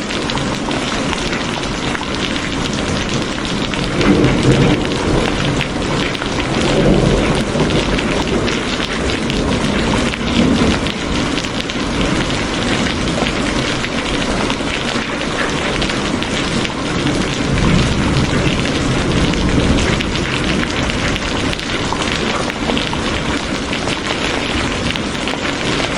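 Steady heavy rain hissing and pattering, with low rumbles swelling up several times.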